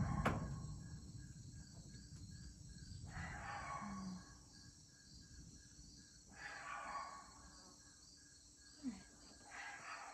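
Crickets chirping faintly in a steady pulse, about five chirps a second. Several short bursts of rustling come and go, and a low rumble dies away over the first couple of seconds.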